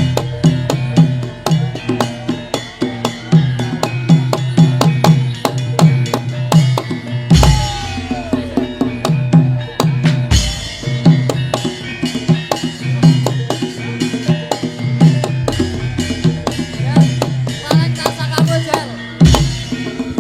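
Javanese Lengger dance music: drums beat a fast, dense, steady rhythm under ringing pitched percussion.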